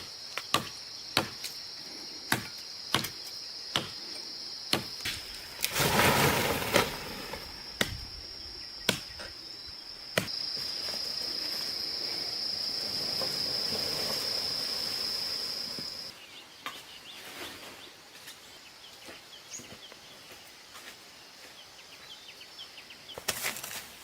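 Sharp knocks repeating roughly once a second over a steady high insect buzz. A louder rough noise comes about six seconds in, the knocks thin out after about ten seconds, and the buzz stops about two-thirds of the way through.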